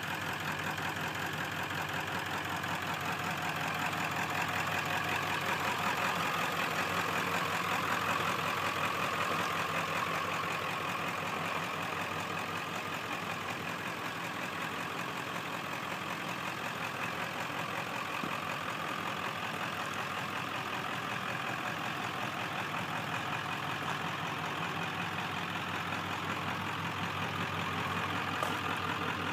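Service truck engine idling steadily.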